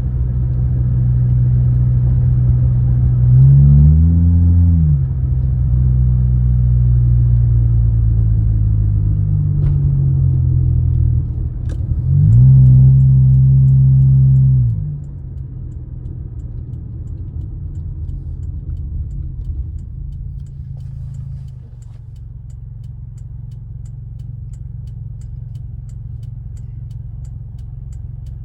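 2006 Honda Accord's engine running, with a brief rise and fall in revs about four seconds in and another rise held for a couple of seconds about twelve seconds in, then settling quieter and lower.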